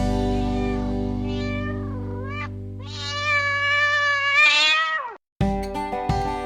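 Domestic cat meowing over fading background music: a short meow about a second in, then one long meow that drops in pitch at its end. After a brief break near the end, acoustic guitar music starts.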